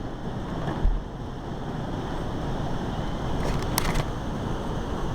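Strong wind buffeting the microphone, a rumbling rush that builds slightly. There is a hard low thump about a second in and a short cluster of clicks about four seconds in.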